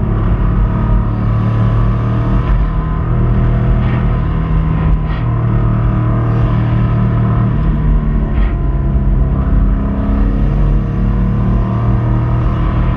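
Subaru Impreza 2.5RS's 2.5-litre flat-four engine running under way at a fairly steady pitch, with a failing connecting-rod bearing. A few brief sharp clicks come through.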